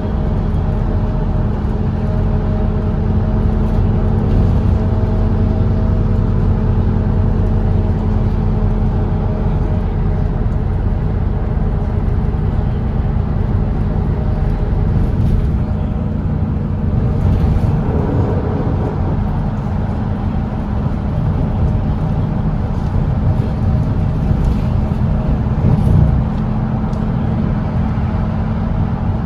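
Volvo B8RLE double-decker bus's straight-six diesel engine running steadily at expressway cruising speed, a low drone with road noise, briefly louder near the end.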